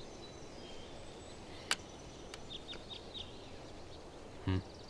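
Faint ambience with small birds chirping now and then in short, high, falling chirps, a single sharp click about a third of the way in, and a brief low voice-like sound near the end.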